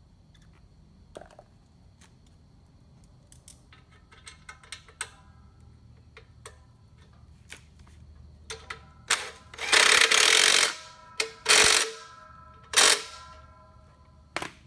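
Metal parts and hand tools clinking and rattling. Scattered light clicks build into a few loud clanks and rattles with ringing metal about nine to thirteen seconds in, and one more clank near the end.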